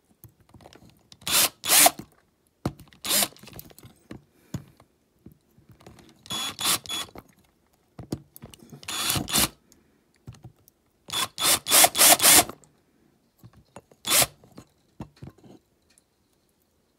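Small power drill run in short bursts, about ten of them, each half a second to a second long with pauses between, working on a die-cast toy van.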